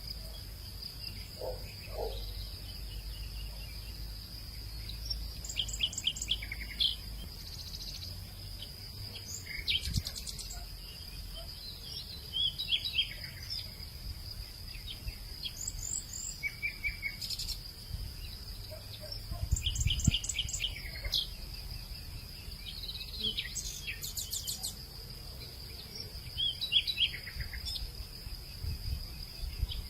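Late-afternoon hillside ambience: a steady high-pitched insect drone, with birds chirping in short rapid series every few seconds over a low rumble.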